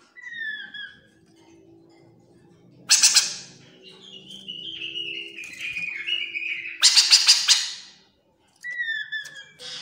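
Chestnut-capped laughingthrush calling: a clear whistled note sliding down, two loud harsh rattling chatters about three and seven seconds in, and a run of notes stepping downward between them, then the falling whistle again near the end.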